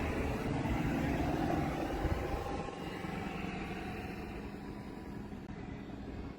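Steady rumble of a running motor vehicle, with a low, even hum under a noisy drone; it eases off slightly about halfway through.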